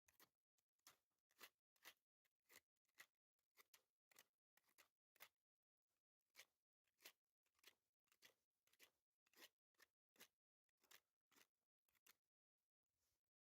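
Faint crunching strokes repeating steadily, about two to three a second.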